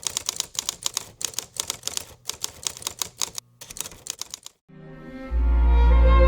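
Rapid runs of key clicks, like typing, in short bursts with brief pauses. They stop and, about three-quarters in, slow music with bowed strings over a deep held bass note begins.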